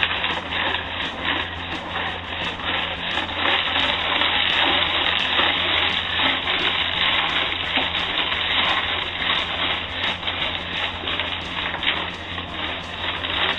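Liquid sloshing and chain rattling inside a 2006 Stratoliner motorcycle fuel tank being shaken. The tank holds white vinegar and a loose chain that scours rust from its inside walls. The sound is continuous, with dense irregular clinks throughout.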